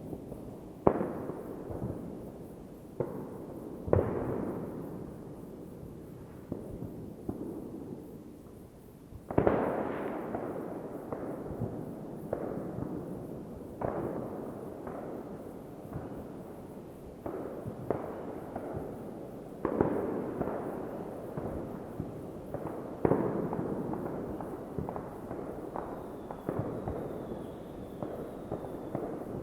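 New Year's Eve fireworks: a steady series of bangs from exploding shells and crackers, near and distant overlapping, each dying away in a long rolling echo. The biggest blasts come about a second in, at four seconds and around ten seconds.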